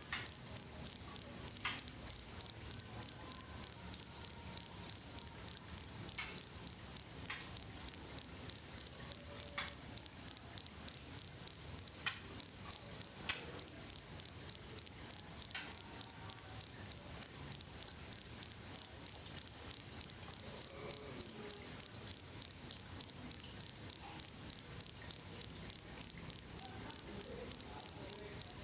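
Cricket chirping steadily, a high chirp repeating evenly about three times a second.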